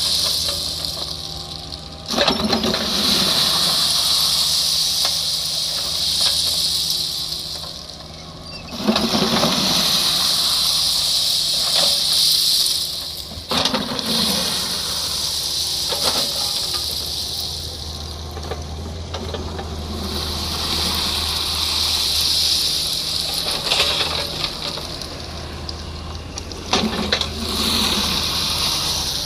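Kubota mini excavator working: its diesel engine runs steadily while a loud hiss comes and goes in stretches of a few seconds as the hydraulics move, with a few sharp knocks. The engine note grows heavier about halfway through, as if under more load.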